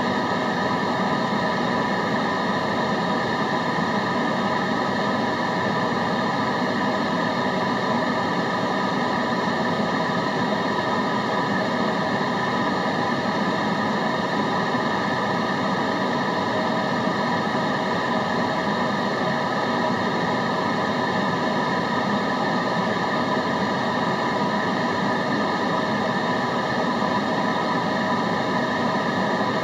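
Steady white noise, an even, unchanging hiss played as a background sound for concentration.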